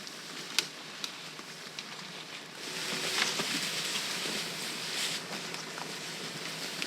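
A few sharp snaps, then about a third of the way in a louder, steady rustling and crackling sets in, with small ticks scattered through it, as of something moving in dry vegetation.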